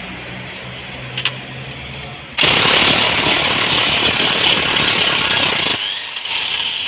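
Impact wrench hammering on a tight 18 mm subframe mounting bolt: one burst of about three seconds, then a shorter burst near the end. A low steady hum comes before it.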